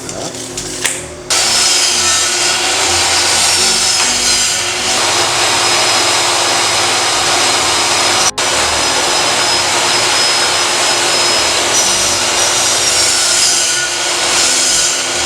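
Power saw cutting wood, a long steady run of loud cutting noise that starts about a second in, with a momentary break a little past halfway.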